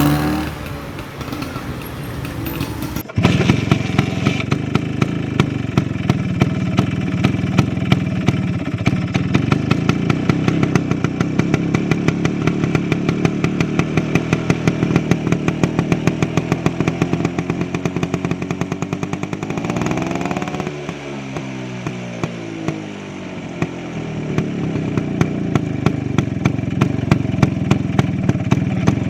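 Vespa Sprint Veloce's 150cc two-stroke single running through a Polini Big Box exhaust, a steady run of exhaust pulses. It jumps louder a few seconds in. About two-thirds of the way through, the engine speed rises, drops back and then picks up again.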